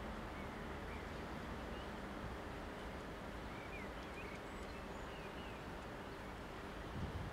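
Outdoor trackside ambience: a steady low background rumble with faint, scattered bird chirps, and a brief low bump near the end.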